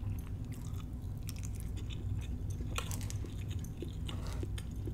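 A person chewing a mouthful of soft crab cake close to the microphone. It makes a string of small irregular mouth clicks and smacks.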